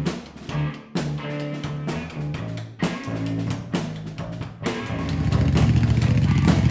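Background music with drums and guitar; a little under five seconds in, a motorcycle engine comes in running steadily and becomes the loudest sound.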